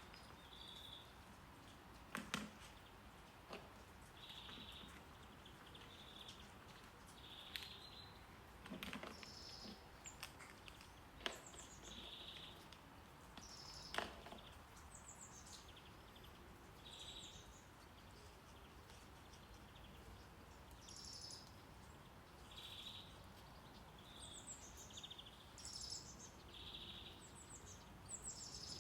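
Birds chirping faintly and repeatedly in short calls, some falling in pitch, over a steady low noise bed of brown noise. A handful of sharp clicks come through in the first half.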